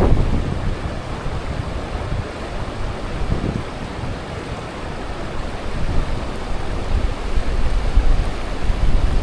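Strong wind buffeting the microphone, a rumbling rush that swells and eases in gusts.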